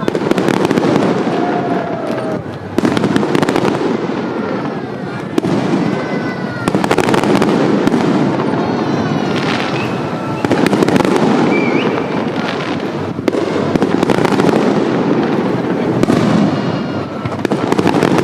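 Fireworks display: a continuous run of bursts and crackling, with fresh loud volleys every two to three seconds.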